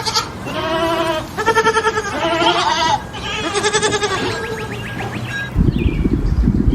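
Bleating farm animal: about five wavering, quavering calls in quick succession. Near the end the calls stop and a low rumbling outdoor noise begins.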